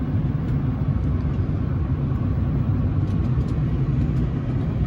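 Pickup truck carrying a camper, driving at highway speed: a steady low engine and road rumble with a few faint ticks about three seconds in.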